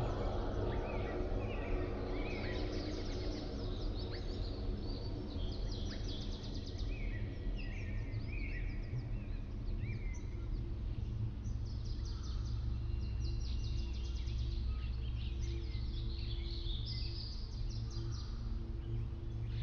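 Many small birds chirping and trilling in quick, repeated phrases, over a steady low drone and rumble.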